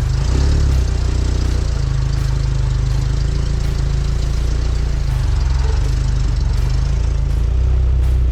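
Suzuki Samurai engine running steadily with a low, even drone.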